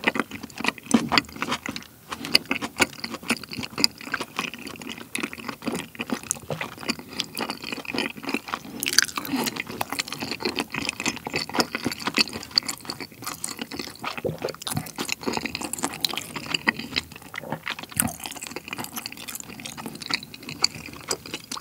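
Close-miked wet chewing of soft, chewy kiri mochi rice cake in cream sauce with bacon: sticky mouth sounds full of rapid small clicks.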